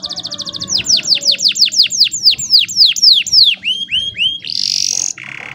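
Domestic canary singing: a rapid high trill, then a run of loud down-sweeping whistled notes at about four a second, three short hooked notes, and a buzzy rattling phrase near the end.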